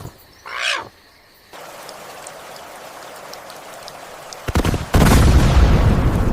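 A short animal call, then a steady hiss of rain; about four and a half seconds in, a loud crack of thunder breaks into a heavy rumble.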